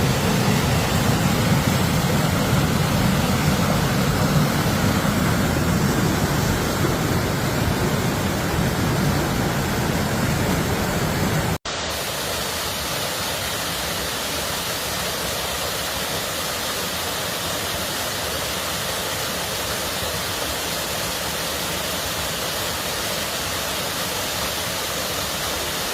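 Steady rushing water. About eleven and a half seconds in it cuts out for an instant and changes to a different, thinner and hissier rush of water with far less low rumble.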